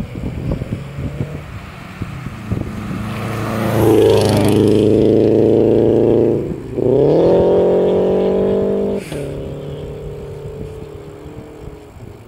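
A motor vehicle's engine passes close by, accelerating: a steady engine note, a brief drop near the middle as it shifts gear, then a rising note that cuts off suddenly and fades away. Wind buffets the microphone at the start and end.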